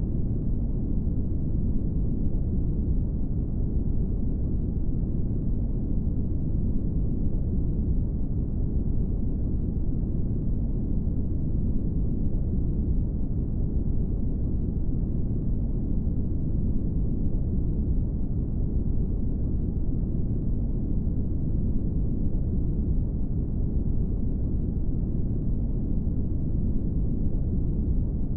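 Steady brown noise: an even, deep rumbling hiss with most of its energy low down and little above the midrange, unchanging throughout.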